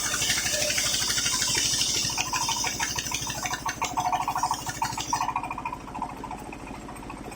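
Sawmill circular saw blade cutting through waru wood with a loud hiss, over the steady running of the engine that drives it. About five seconds in the cut ends and only the engine and the freely spinning blade are left.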